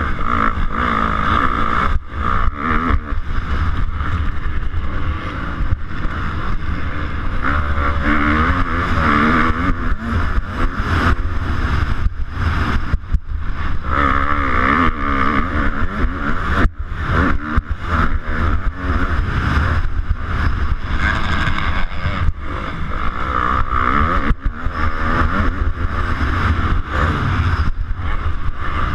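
250cc motocross bike engine running hard in a race, revving up and down again and again as the rider works the throttle and gears, heard from an on-board action camera.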